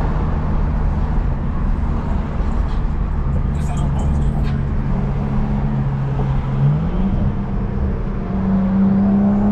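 BMW F10's N55 turbocharged inline-six running under way through a custom-built intake, its note steady and then rising in pitch about seven seconds in and holding there.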